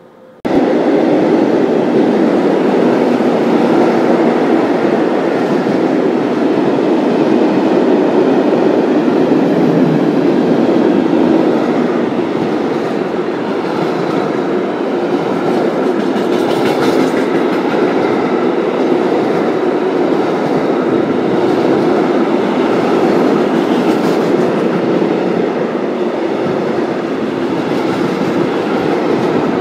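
A freight train of empty flat stake wagons and covered sliding-wall wagons passing close by, its wheels running steadily on the rails. The sound starts abruptly about half a second in.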